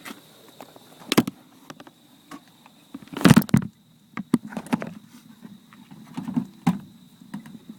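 Scattered clicks, knocks and rustling of hands working on a motorcycle's loose license-plate light wire, with one louder rustle a little over three seconds in. Under it runs a steady high trill of crickets.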